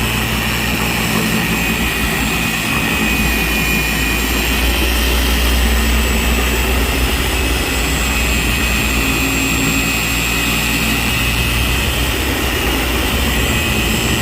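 Electric paint polisher running steadily on speed 3, a constant motor whine with a low hum, as its pad works cutting compound over a wet-sanded spot of car paint.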